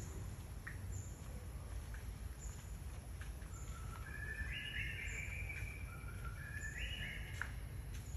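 Birds calling over a steady low rumble: a short high chirp repeats about every three-quarters of a second, and two longer phrases of stepped notes, held flat and moving up and down, come about halfway through and near the end.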